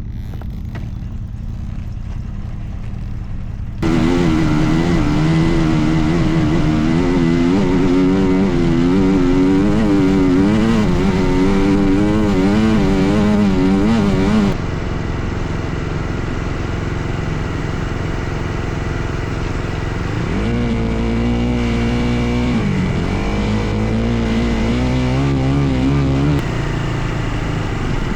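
Dirt bike engines running and revving in a series of spliced clips: a low rumble at first, then from about four seconds in a loud engine whose pitch wavers up and down, then after a cut a lower engine note that climbs sharply around twenty seconds in and drops back.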